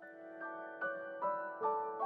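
Gentle background piano music: single notes played one after another about every half second over a held low note.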